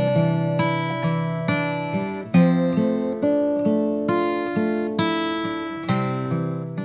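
Acoustic guitar music: strummed and picked chords, each striking sharply and then ringing out and fading.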